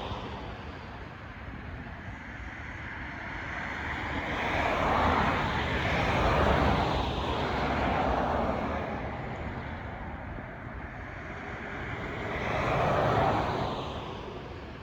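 A school's heating system howling, a rushing noise that swells and fades in slow surges, loudest about five to eight seconds in and again near the end. It is a fault still waiting for repair.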